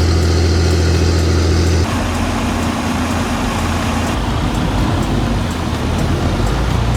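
Heavy vehicle engine running steadily with a deep hum. About two seconds in the sound changes abruptly to a rougher, noisier rumble.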